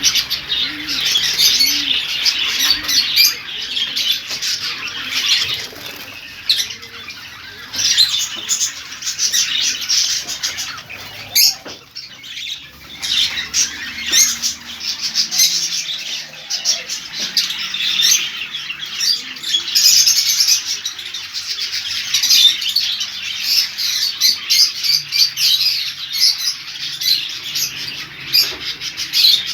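Many caged lovebirds calling at once: a dense, continuous chatter of shrill, rapid chirps and squawks.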